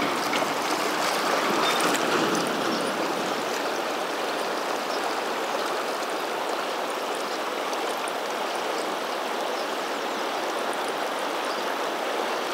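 Fast river current rushing steadily past a gravel bank: the South Fork Snake River flowing strong and swift.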